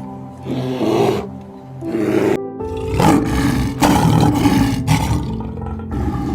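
A big cat roaring several times over background music with steady sustained notes.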